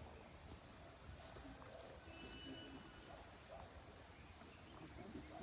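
Faint outdoor ambience dominated by a steady, high-pitched insect trill, typical of crickets, with faint scattered rustling.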